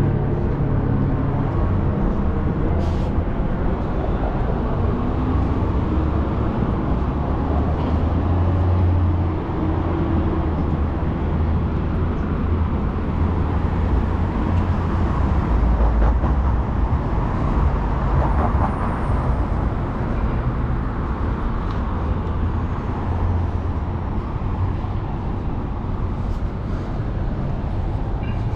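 City street ambience dominated by passing motor traffic: a steady low rumble of engines and tyres.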